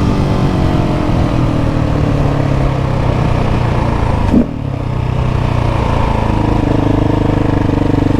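KTM 690 SMC R's single-cylinder four-stroke engine through a Leo Vince exhaust, revs slowly falling as the bike rolls off. About four and a half seconds in there is a short sharp blip, after which the engine runs steadily at low revs.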